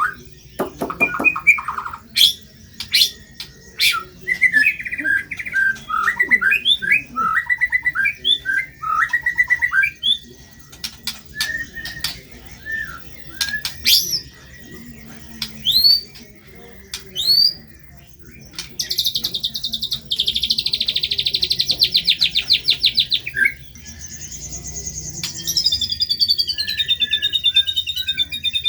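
White-rumped shama (murai batu) singing a varied, non-stop song of sharp whistles and upswept notes, with a long rapid rattling trill in the middle and a stepping series of notes near the end.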